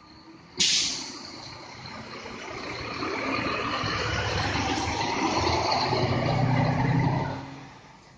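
A bus's air brakes release with a sudden sharp hiss about half a second in. Then its diesel engine grows louder over several seconds and dies away near the end.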